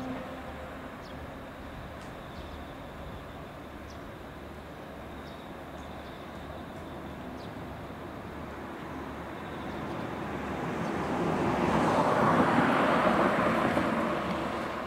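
Sound of a 285 series Sunrise Seto sleeper electric train dying away as it runs off into the distance. About ten seconds in, a broad rushing noise swells up, peaks and starts to fade near the end.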